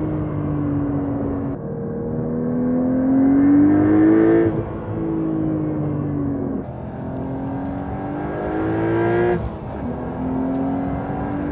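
Porsche 992.2 Carrera T's 3.0-litre twin-turbo flat-six, in Techart TsportR tune, pulling hard through the gears. The engine note climbs twice and drops sharply each time as the manual gearbox shifts up, about four and a half seconds in and again near nine and a half, then runs on more steadily.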